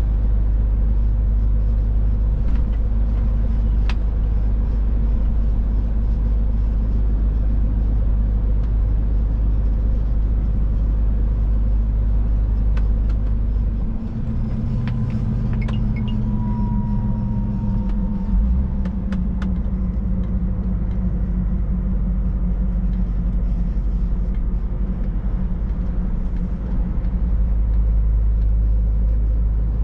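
Scania Next Generation truck driving, a steady low drone of engine and road noise heard from inside the cab. About halfway through the engine note changes, and a few sharp clicks are heard.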